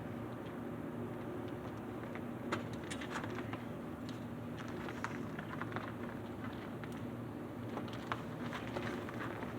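1985 Honda XR350R's air-cooled single-cylinder four-stroke engine idling steadily as it warms up from a cold start. Scattered sharp clicks begin about two and a half seconds in.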